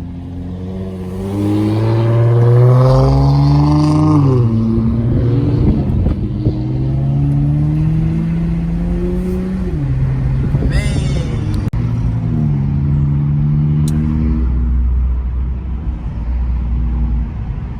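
Car engine accelerating through the gears: its pitch rises and drops back at each gearshift, about three times, then runs steadier near the end.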